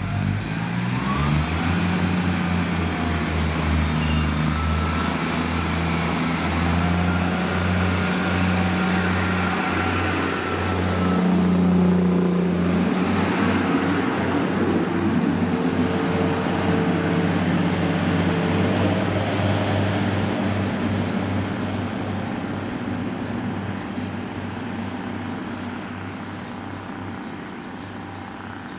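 Diesel train engine running with a deep, pulsing hum whose beat quickens as the train gets moving, then fading away over the last several seconds.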